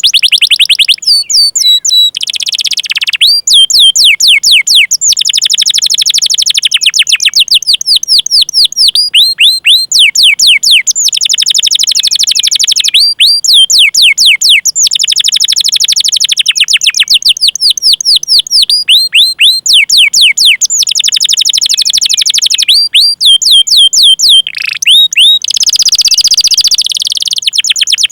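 Domestic canary singing loudly and without pause: fast rolling trills alternate with runs of sharp, downward-sweeping 'cuit cuit' whistles, broken by brief gaps. Near the end comes a harsher, buzzier roll.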